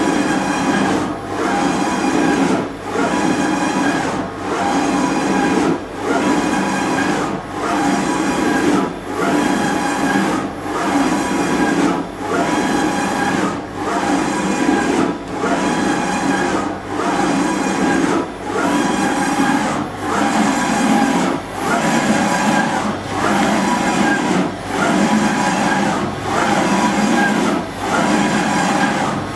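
Brand 850 NE CNC surface grinder running under power, its table traversing back and forth. The steady machine noise dips briefly at each reversal, regularly about every second and a quarter.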